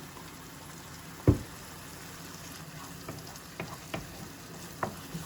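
Onion and ground tomato paste sizzling in oil in a pan while being stirred, with a few short knocks of the spoon against the pan, the loudest about a second in.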